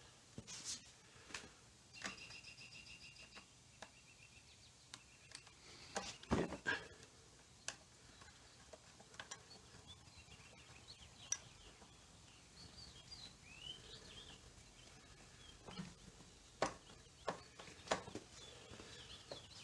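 Scattered light clicks and knocks of hand tools and small metal parts being handled, the loudest knock about six seconds in, with a brief pulsing high tone a couple of seconds in.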